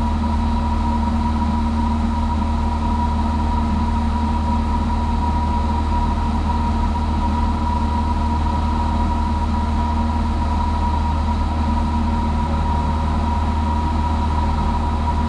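Cessna 172's four-cylinder piston engine and propeller running steadily, a constant loud drone that does not change in pitch, with a steady high tone running over it.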